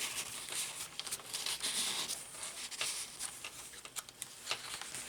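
Soft paper rustling with light clicks and taps as the pages, tags and journal cards of a handmade paper journal are handled and turned.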